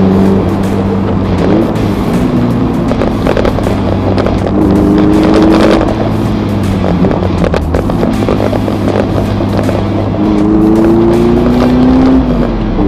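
Car engine running on the move, its pitch climbing under acceleration about five seconds in and again near the end, dropping back between the climbs.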